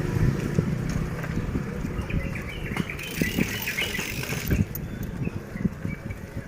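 Bicycle riding over a rough road: a steady low rumble from the tyres, with frequent small knocks and rattles.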